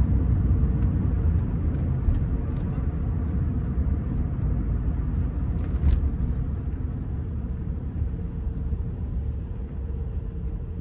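Steady low rumble inside a Rolls-Royce Silver Spirit III on the move: engine and road noise, with one short knock about six seconds in and the level easing slightly toward the end.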